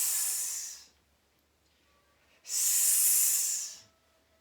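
A person breathing out a long hissing "sss", the lung sound of the Qigong Six Healing Sounds. One hiss ends about a second in, and a second hiss of about a second and a half starts midway through.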